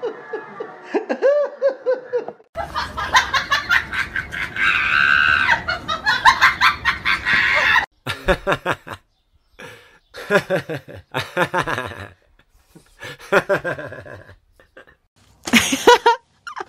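A string of laughter sound-effect clips: a short laugh, then several seconds of many people laughing together, then a run of separate short laughs broken by brief gaps, with a loud burst near the end.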